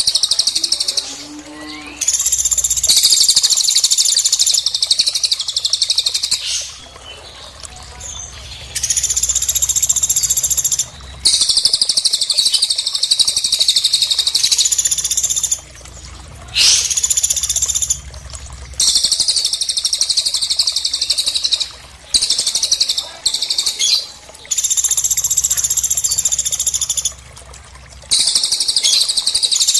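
Cililin and pelatuk song from a bird-song training recording: long, rapid, high trills in loud runs of two to four seconds, broken by short pauses.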